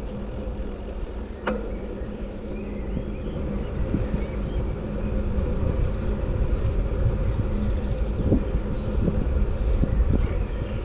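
Steady low rumble of wind buffeting the microphone and road noise during a bike ride, with a single sharp click about a second and a half in.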